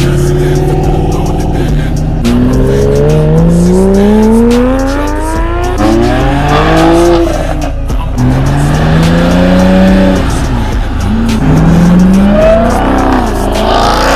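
A car engine accelerating hard: its pitch climbs, drops back and climbs again several times as it shifts up through the gears, with tyres squealing.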